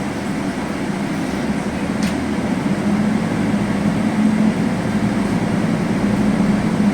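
Steady drone of a Scania N280UB city bus's compressed-natural-gas engine heard from inside the bus, with a low hum that grows a little louder about halfway through. One faint click sounds about two seconds in.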